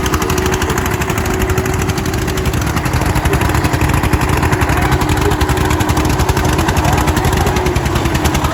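Eicher 241 tractor's single-cylinder air-cooled diesel engine running with a rapid, even firing beat, steady throughout.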